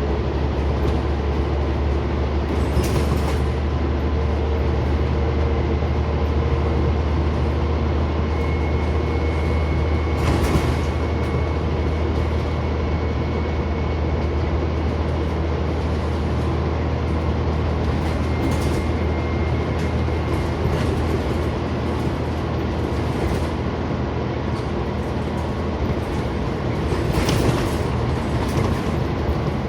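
Interior of a Scania OmniCity single-deck bus on the move: a steady low engine and road drone, with a few brief knocks and rattles from the body.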